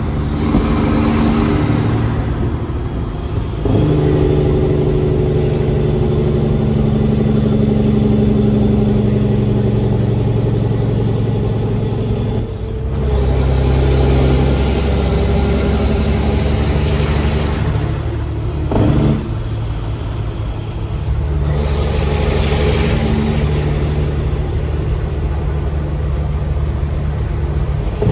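Peterbilt semi-truck's diesel engine pulling under load, its note breaking and changing pitch three times as the driver shifts gears, with a high whistle rising and falling three times over it.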